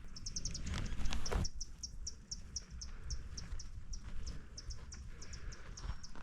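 A small creature chirping over and over, short high chirps at about three to four a second, quicker at first. There is a low rumble underneath, and a couple of knocks about a second in.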